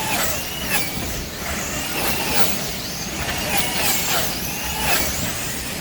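Wing slot cars racing: their small electric motors whine, the pitch rising and falling over and over as the cars speed up on the straights and slow into the turns.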